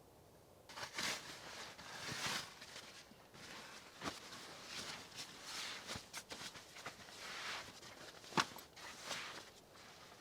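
Footsteps crunching and rustling at an uneven walking pace, starting just under a second in, with one sharper click near the end.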